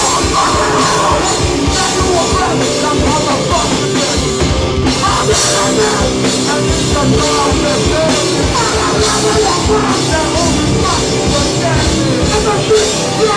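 Hardcore band playing a song live at full volume: drums and distorted guitars, steady and dense throughout.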